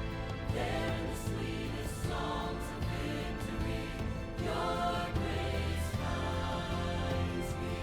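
Christian choral music: several voices singing a hymn in held phrases over a steady instrumental accompaniment.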